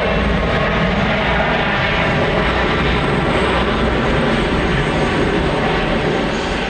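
Widebody jet airliner's engines, loud and steady, beginning to fade near the end.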